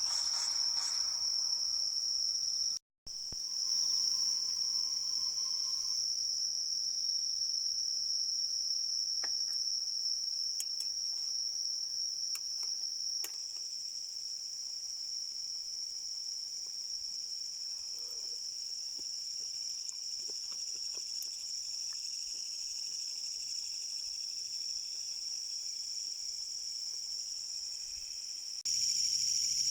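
Steady, high-pitched chorus of singing insects, which breaks off for a moment about three seconds in.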